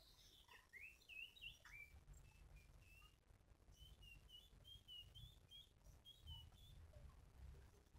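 Faint bird calls: a string of short high chirps and rising whistles, with a quicker run of short notes in the middle, over a faint low rumble.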